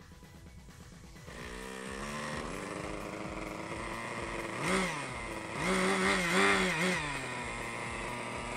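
Kyosho Nexus 30 RC helicopter's small OS Max nitro glow engine starting up about a second in, catching quickly with its pitch climbing, then running and revving up and down in short bursts near the middle.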